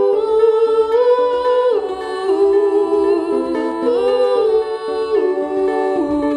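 Wordless hummed folk melody, held notes stepping up and down, over a ukulele accompaniment.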